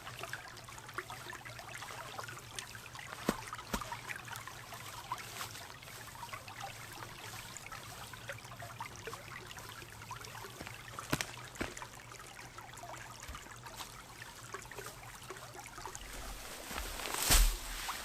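Water trickling, with scattered small clicks and knocks and one louder, longer noise near the end.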